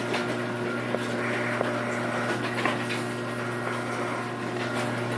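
A steady low mechanical hum at a constant pitch, with a few faint clicks.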